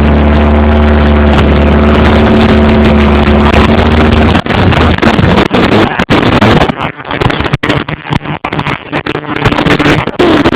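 A rebuilt engine running steadily on a stand, shut off about four seconds in, followed by a run of irregular knocks and pops.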